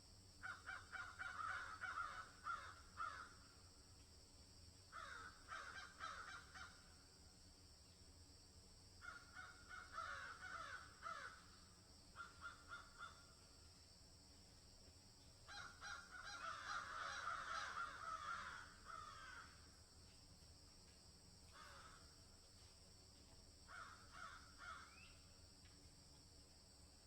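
Crows cawing in bouts of several harsh calls, each bout a second or few long and coming every few seconds. Behind them runs a steady high insect trill.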